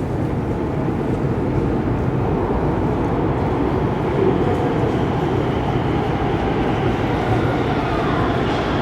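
Prague Metro line C train running, heard from inside the carriage: a steady rumble of wheels and running gear, with a faint higher whine coming in near the end.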